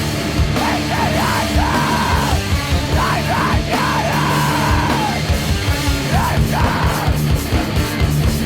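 Heavy, loud rock music: a full band with drums and guitars under a yelled, screamed vocal that comes in about half a second in and breaks off near the end.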